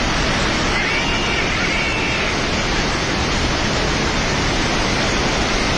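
Floodwater of a river in spate rushing past in a loud, steady, unbroken torrent of noise.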